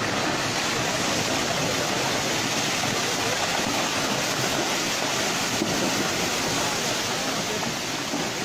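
Steady rushing of fast-flowing floodwater, an even noise with no breaks.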